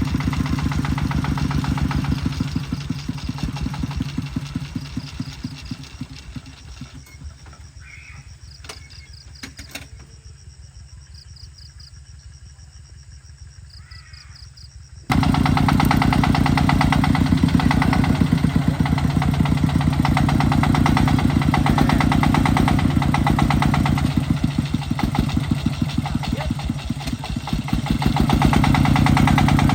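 Tractor engine running with a steady chugging pulse. It fades away for several seconds, then comes back suddenly loud about halfway through.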